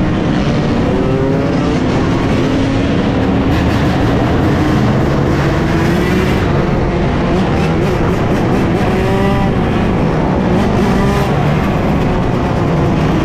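A large group of dirt bikes running and revving together, several engines rising and falling in pitch over one another in a steady loud din.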